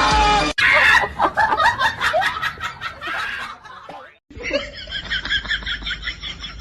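Music for the first half second, then a person laughing in quick, rhythmic bursts. The laughter breaks off briefly about four seconds in and starts again, a run of short repeated giggles.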